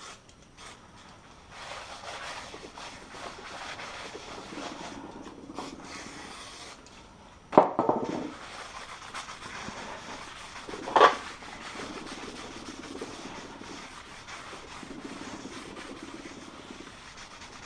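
Rubbing and scraping from hands working over the brake disc and wheel hub, with two sharp knocks a few seconds apart.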